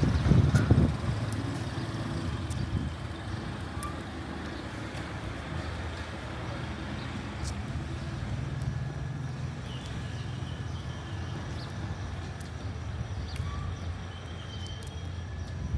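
City street traffic: a motor vehicle passes close in the first second, then a steady low engine hum from traffic carries on, with scattered light clicks.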